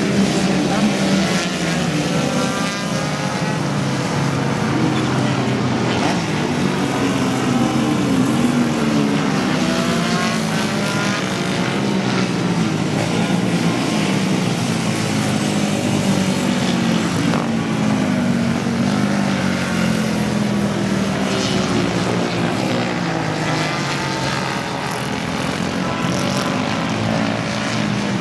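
Several vintage racing motorcycle engines running together on a race circuit, their overlapping notes rising and falling as the bikes rev up and change gear.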